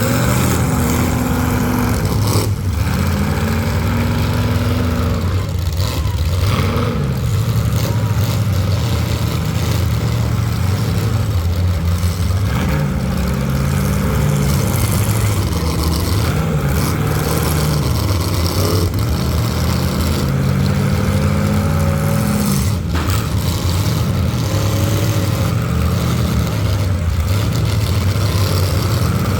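Full-size demolition derby cars' engines revving hard, their pitch rising and falling over and over, with a few sharp bangs from cars hitting each other.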